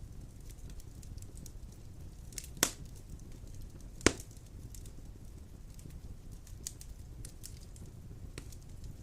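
Wood fire burning in a fireplace: a steady low rush of flames with scattered crackles, and two sharp pops about two and a half and four seconds in.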